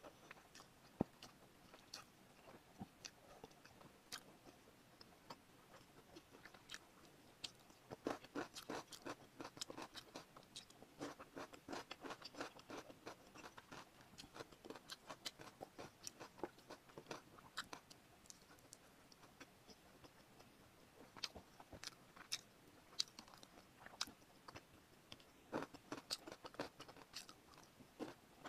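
Close-miked eating sounds: chewing spicy instant noodles and sipping broth from the cup, heard as a stream of small wet mouth clicks and smacks, thickest in the middle and again near the end.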